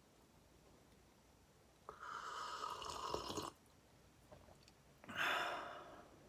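A person sipping hot coffee from a cup, two breathy slurps about two and five seconds in, the second one louder and shorter.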